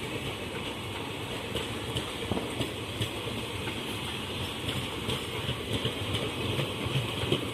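Passenger train coaches rolling past as the train pulls into the station: a steady rumble of wheels on rail with occasional faint clicks.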